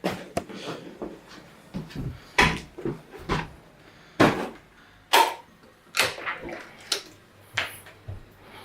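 An irregular series of sharp knocks and clunks of objects being handled in a small room, about one every half second to a second.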